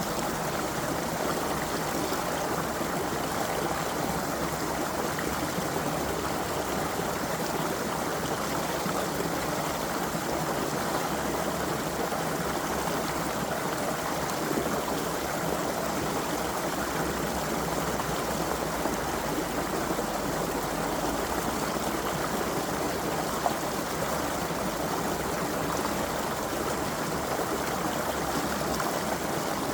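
A creek's water flowing and splashing over stones in a steady, even rush.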